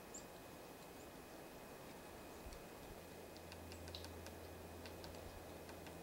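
Quiet winter outdoor ambience with a few faint, short, high chirps and ticks from small birds at the feeders, most of them in the middle of the clip. A low steady hum comes in about halfway and stops near the end.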